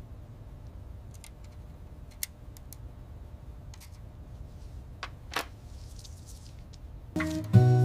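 A handful of faint, scattered clicks and light taps over a low steady hum, with music coming in near the end.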